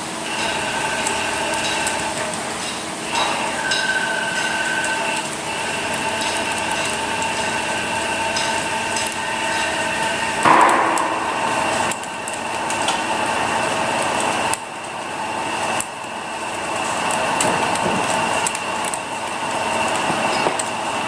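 CNC lathe running, with several steady whining tones from its drives and scattered sharp metallic ticks. There is a louder, harsher burst about halfway through, and the pitch and level shift a few times as the machine changes what it is doing.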